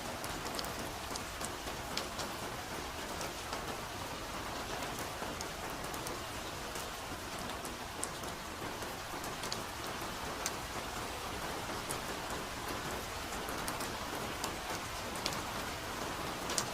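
Steady soft rain falling in a forest, an even hiss with scattered sharp drops pattering close by.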